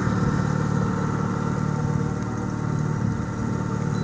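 Boat motor running steadily at trolling speed, a constant drone with a whine over it.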